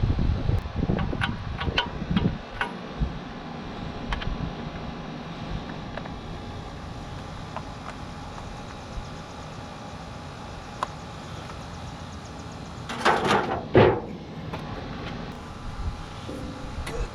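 Hand tools working on a tractor's hydraulic hose fittings: a few light metallic clicks in the first few seconds, then a louder clatter twice about 13 seconds in, over a steady background hum.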